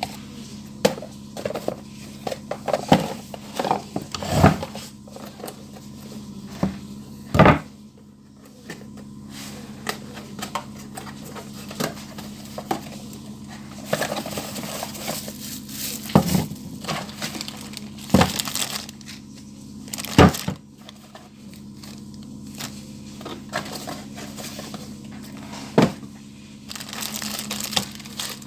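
Parts and tools being handled in a workshop: irregular knocks and clinks with rustling in between, over a steady low hum.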